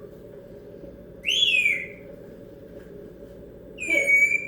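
African grey parrot whistling twice: a short note that rises then falls about a second in, and a held steady note near the end.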